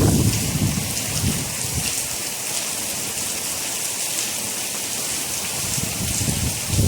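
Steady rain falling, a dense hiss. A low rumble under it fades out in the first second and swells again near the end.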